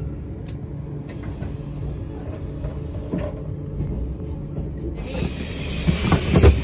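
Inside a JR 651 series express train rolling slowly into a station: a steady low running rumble. About five seconds in, a louder rush of noise starts together with quick footsteps and knocks as someone hurries through the vestibule toward the door, the loudest knock near the end.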